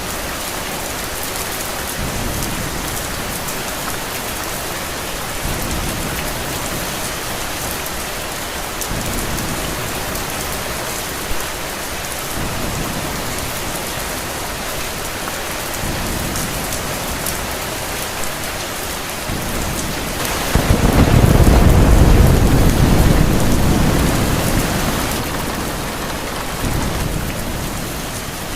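Steady heavy rain falling, with a long low rumble of thunder that swells up about two-thirds of the way through and dies away over several seconds.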